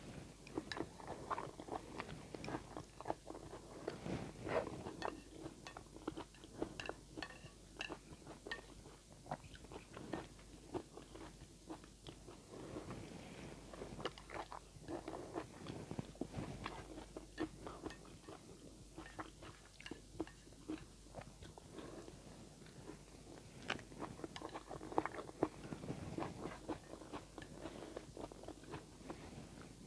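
A person chewing mouthfuls of instant noodles mixed with chopped bell pepper, with many small wet clicks and smacks of the mouth.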